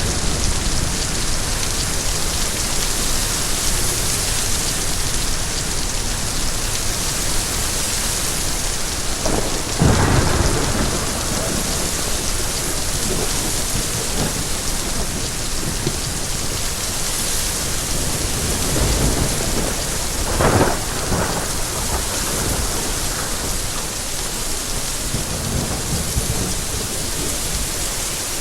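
Steady heavy rain, an even hiss, with two brief louder swells in the low end, one about ten seconds in and another about twenty seconds in.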